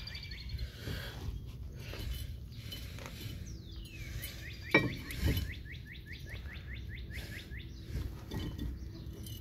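A bird singing a rapid run of short down-slurred notes for several seconds, starting a few seconds in, with a single sharp click about five seconds in.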